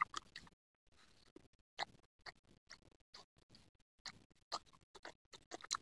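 Faint mouth sounds of people chewing chewy grilled beef-skin satay: scattered short, wet clicks and smacks at an irregular pace, a little more frequent near the end.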